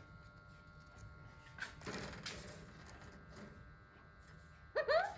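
Alexandrine parakeet giving two short squawks that rise in pitch, near the end. A brief rustle about two seconds in.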